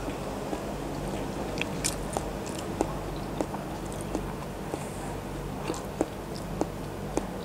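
Close-miked chewing of a grilled chicken embryo egg, with wet mouth sounds and short sharp clicks and crackles about once or twice a second, over a steady low hum.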